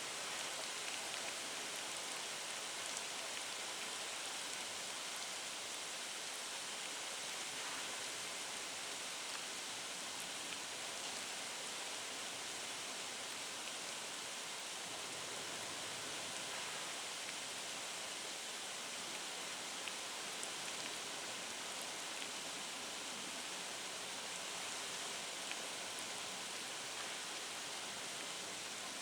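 Steady hiss of heavy rain from a typhoon, with a few faint ticks of drops.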